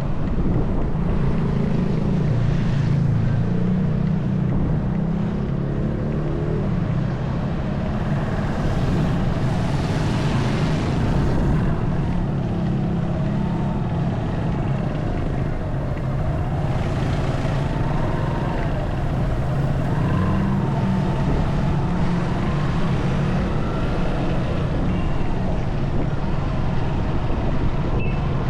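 Motorcycle engine running under way, with steady wind noise on the microphone.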